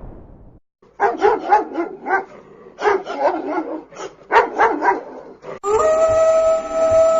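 Sound-effect dog barking in quick clusters of short barks, followed about five and a half seconds in by a long, steady howl-like tone. At the start the tail of a louder blast-like noise fades away.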